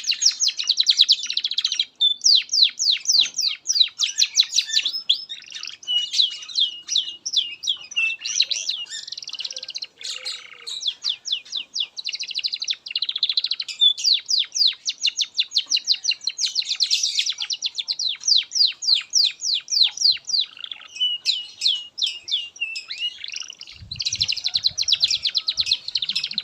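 Domestic canary singing a long continuous song of fast trills and rapid repeated down-sweeping notes, with brief pauses between phrases. A low rumble starts near the end.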